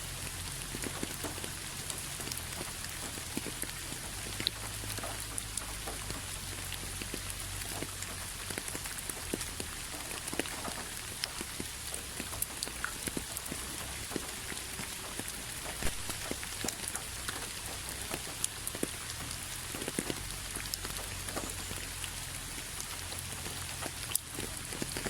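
Steady rain, a constant hiss with many separate drops ticking and pattering on a hard surface, over a faint low rumble.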